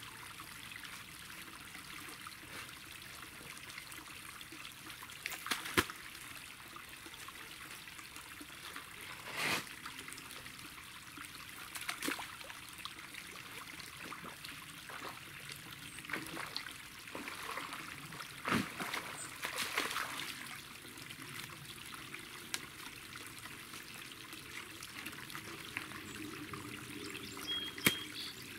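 Water trickling steadily through a leak in a small clay dam, with a few brief sharp noises scattered through it, the loudest about six seconds in and near the end.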